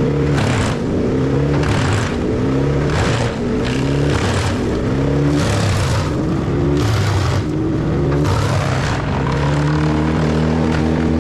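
Wood chipper running under load: the engine's pitch sags and recovers again and again as wood is fed in. A burst of chipping and grinding noise comes about once a second.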